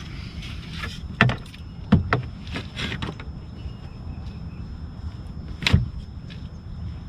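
Sharp knocks and clunks on a fishing boat, three loud ones about a second in, two seconds in and near the end, over a low steady rumble.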